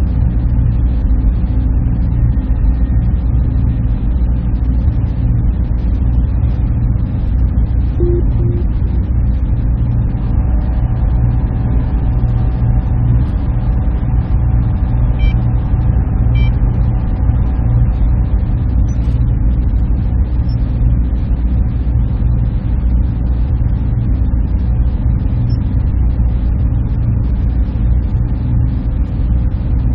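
Server room machine noise: a steady low drone of fans and cooling equipment, with several constant hum tones layered in it.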